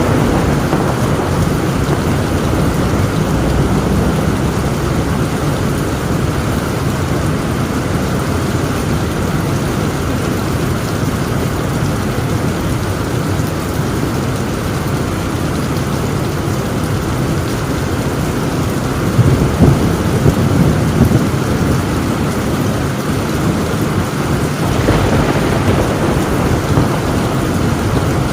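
Torrential rain on a tin roof, a dense steady downpour with low thunder rumbling underneath. A few louder thunder peaks come about two-thirds of the way through.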